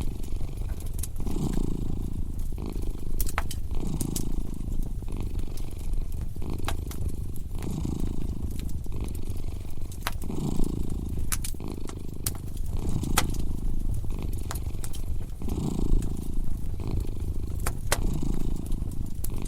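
A cat purring steadily, its low purr swelling and easing with each breath about every second and a half. Over it a wood fire crackles with scattered sharp pops.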